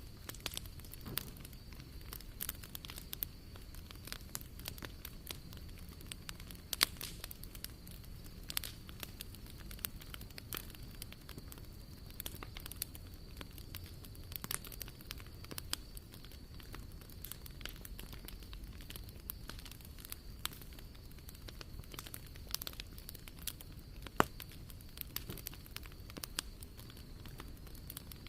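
Wood fire crackling in a fire pit: a steady irregular scatter of small sharp pops and snaps. One louder snap comes about a quarter of the way in and another near the end.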